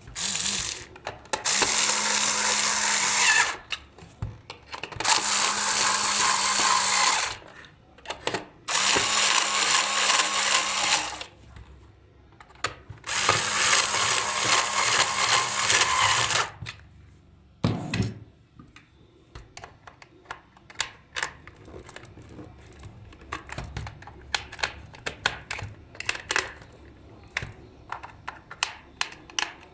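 A small electric power tool run in four bursts of two to three and a half seconds each, a steady hum under a hissing, grinding noise. In the second half, scattered light clicks and taps.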